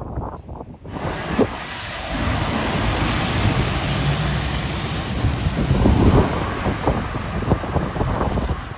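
Wind buffeting the microphone with a low, uneven rumble, and a steady hiss that starts suddenly about a second in.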